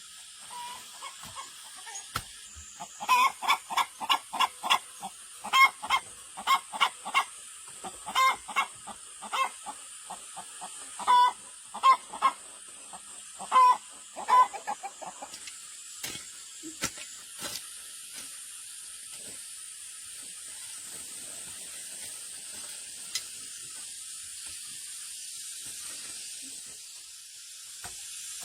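Chickens clucking in a run of short, repeated calls for the first half. A steady hiss follows.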